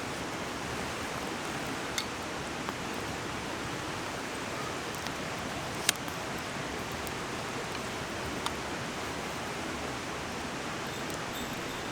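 Steady rushing of a mountain stream, with a few sharp crackles from a wood fire about two, six and eight and a half seconds in.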